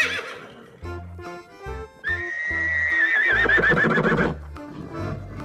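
Horse whinnying: a short whinny trailing off at the start, then a longer one about two seconds in that holds a high note and breaks into a quavering trill before stopping. Light background music plays under it.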